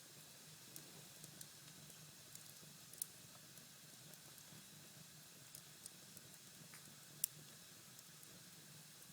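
Cherry-wood fire in a fireplace crackling faintly: sparse small pops, the sharpest about three seconds in and about seven seconds in, over a low steady hum.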